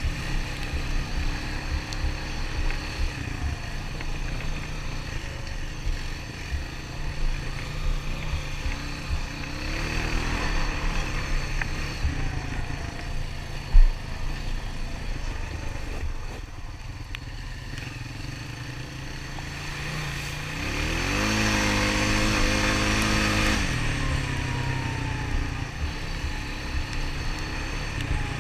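Single-cylinder four-stroke Honda ATV engine running under way on a trail, its pitch rising and falling with the throttle. It revs up louder about twenty seconds in and eases off a few seconds later. A single sharp knock comes about halfway through.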